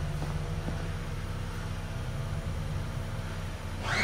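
Chevrolet Equinox 1.5-litre turbocharged four-cylinder engine idling steadily. Near the end a rising whine sets in and the sound grows louder.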